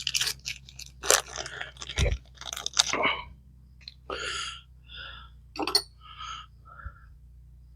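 Hands handling small carburettor parts on a workbench: a run of irregular clicks, taps and crinkly rustles, busiest in the first few seconds, then a few scattered rustles.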